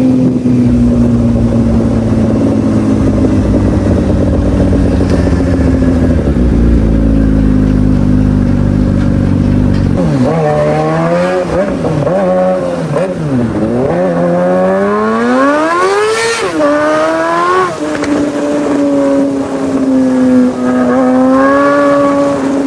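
Superbike engine running at a steady high note, then revving up and down several times about halfway through, climbing to its highest pitch before dropping back to a steady note.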